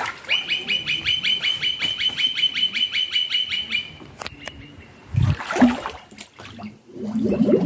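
A bird calling in a rapid, even chatter of about eight notes a second at one pitch for nearly four seconds. A brief louder thump follows about five seconds in.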